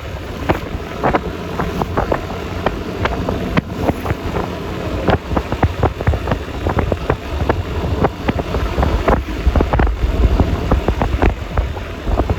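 Ride noise from a Yamaha Lexi LX 155 scooter under way: a steady low engine and road rumble, with irregular crackling wind buffeting on the microphone throughout.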